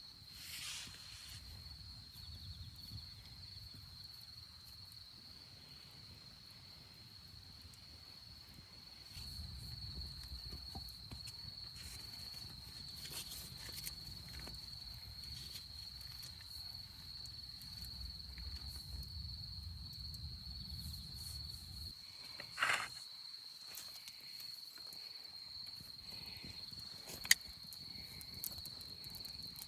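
Insects, crickets by the sound of it, trilling steadily at one high pitch, over a low rumble with scattered small clicks. There is a louder knock about 22 seconds in and a single sharp click about 27 seconds in.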